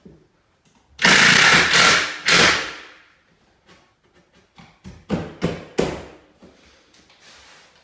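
Hand and power tool work on wooden trim: two loud bursts, the first about a second long and the second shorter, then a quick run of four or five sharp knocks a little before the end.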